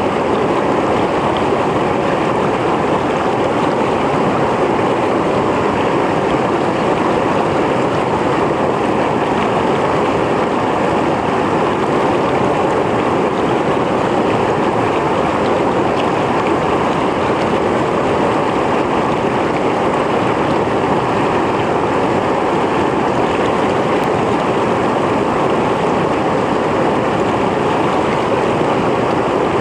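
Mountain stream flowing over rocks: a steady, full rushing of water with no change.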